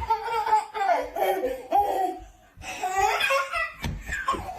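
A person laughing hard in high-pitched bouts, in two stretches with a short pause a little past the middle.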